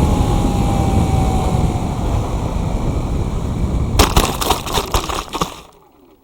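Airflow rushing over the onboard camera of a Firstar 2000 RC motor glider in flight. About four seconds in it gives way to a quick run of sharp knocks and rattles, typical of the glider touching down and skidding to a stop, and the sound then fades out.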